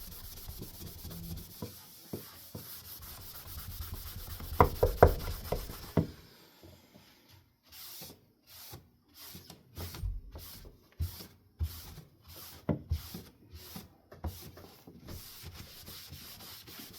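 Rubbing and scrubbing on a wooden ceiling fan blade. First a steady rub with a few louder knocks about five seconds in, then short back-and-forth strokes about two a second, then steady rubbing again near the end.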